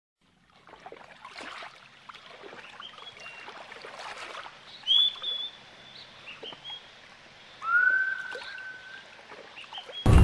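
Birds calling with clear whistled notes and short chirps: a loud brief whistle about five seconds in and a longer whistle that rises and then holds near eight seconds.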